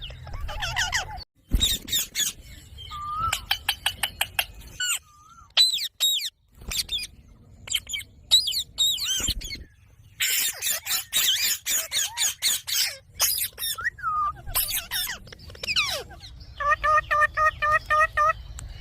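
Indian ringneck parakeet calling: a busy mix of squawks, chirps and whistled glides, with a fast run of repeated calls near the end.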